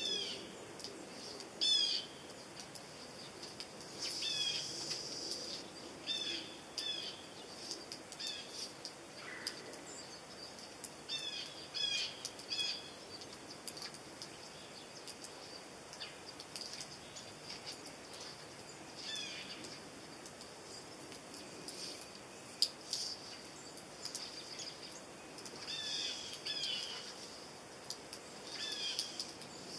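Small birds chirping, short high calls that slide down in pitch, coming in scattered clusters every few seconds.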